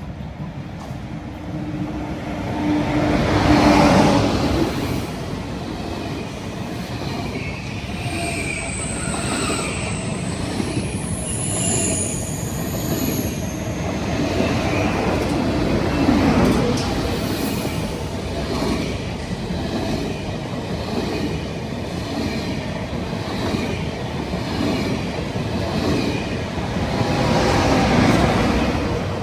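A long train passing on the rails with steady rolling noise and wagons clattering over the track. High-pitched wheel squeal comes in about a third of the way through. The noise swells several times as the train goes by.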